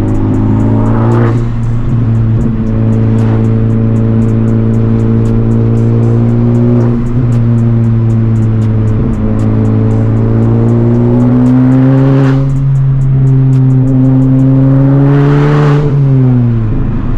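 Modified Honda Civic Type R's turbocharged four-cylinder engine, with a catless downpipe and resonator-deleted exhaust, pulling at steady revs. The pitch climbs slowly and drops back a few times as the driver lifts or shifts, then falls sharply near the end.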